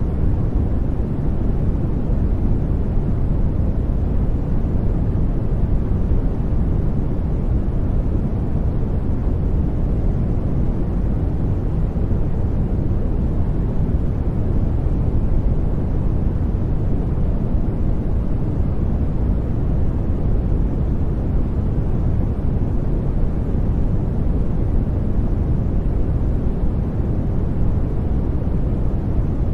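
Steady sleep-aid noise: an even, deep rushing hiss, weighted towards the low end, that never changes.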